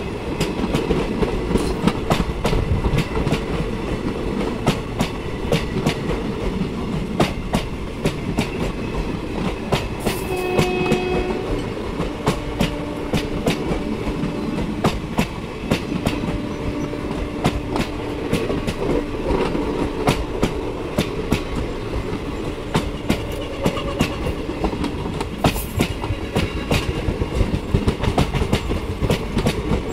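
Indian Railways passenger coaches rolling past close by: a steady rail rumble with the wheels clicking irregularly over rail joints.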